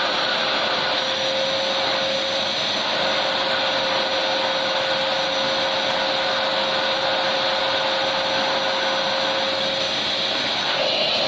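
Electric vacuum cleaner running steadily: an even rushing hiss of air with a constant motor whine, with no change in speed or load.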